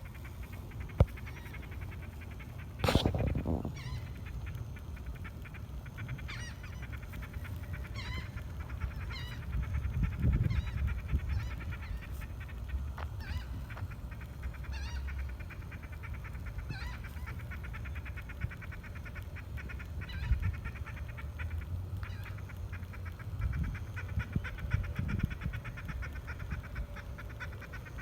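Gulls giving a long series of short, repeated calls during mating, over a steady low rumble. A brief loud noise breaks in about three seconds in.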